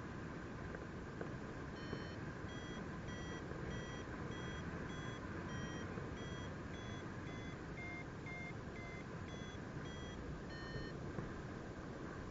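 Paragliding variometer beeping about twice a second, the climb tone that signals the glider is rising in lift; the beeps start about two seconds in, rise a little in pitch past the middle and stop near the end. Wind rushes over the microphone throughout.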